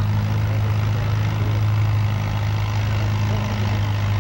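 Antique farm tractor engine running steadily at wide-open throttle under the load of a pulling sled, its pitch holding even.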